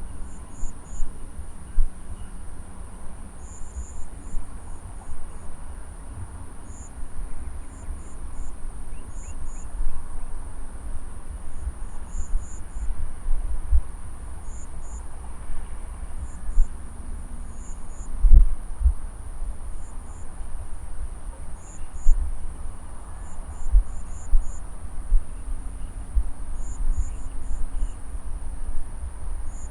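Insects in a harvested rice paddy keep up a steady, very high-pitched drone, with short chirps coming in twos and threes every second or two. Uneven low rumbling gusts of wind on the microphone run underneath, with a stronger gust about 18 seconds in.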